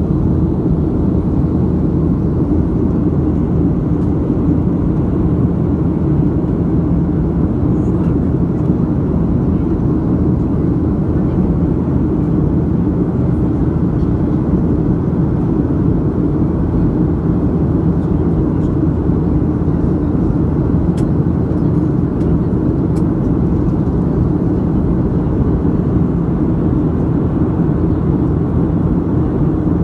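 Steady drone inside an airliner's passenger cabin in flight: engine and airflow noise, loud and unchanging, with a low hum under it.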